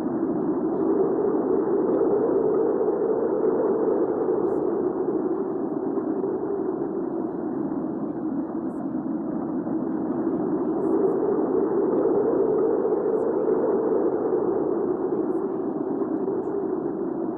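Hurricane wind ambience: a steady rush of wind that twice swells and rises in pitch, then eases back down.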